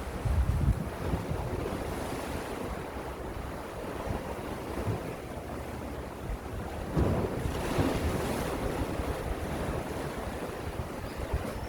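Gentle sea waves washing in, a steady wash with two louder swells, one just after the start and one about seven seconds in. Wind rumbles on the microphone.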